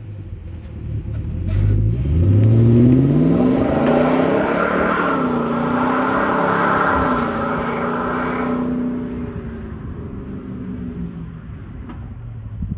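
Car exhaust through a Flowmaster 50 Series muffler as the car accelerates past. The exhaust note rises in pitch with the revs about a second in, is loudest around the middle of the pass, and fades as the car pulls away.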